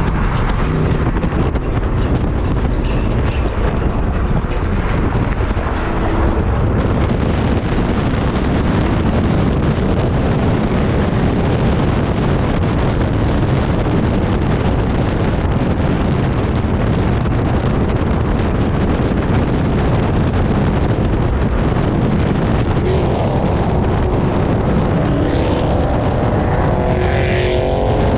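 Several cars driving off together, a steady mix of engine, exhaust and road noise with wind buffeting the microphone.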